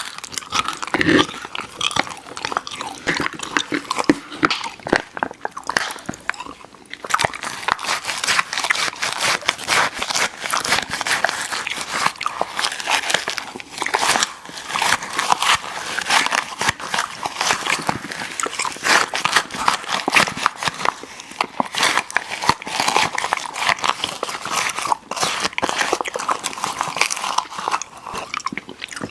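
Close-miked mouth sounds of chewing soft, chewy candy: rapid wet smacks and clicks of the mouth working, steady throughout.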